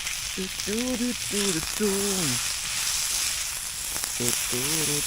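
Chanterelle mushrooms, onion and bell pepper sizzling as they fry over a campfire, a steady hiss, while a man hums or sings a few drawn-out notes in two short phrases.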